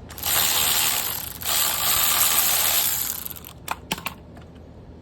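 Milwaukee cordless impact wrench hammering on a rear shock bolt in two bursts of about a second and a half each, breaking it loose, followed by a few sharp clicks.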